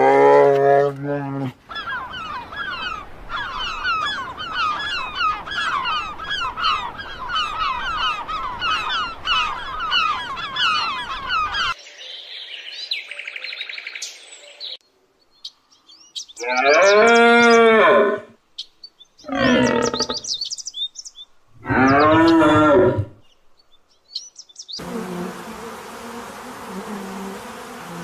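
A series of animal calls: a dense chorus of bird chirping for about ten seconds, then three separate long cow moos each lasting a second or more, and near the end a steady buzzing hum.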